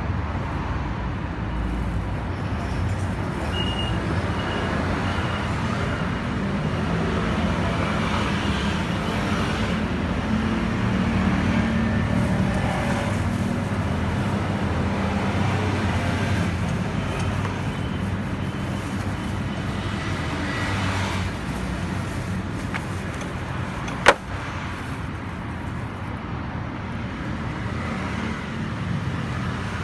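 Kymco G3 scooter's single-cylinder engine running steadily, a little louder for a few seconds in the middle, with one sharp click near the end.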